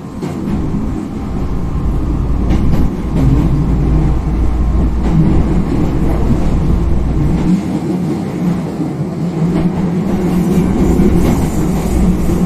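Hankyu 5300-series electric train running, with a steady low rumble of wheels on rail and the drone of its TDK-8550-A traction motors. The sound swells over the first couple of seconds, then holds.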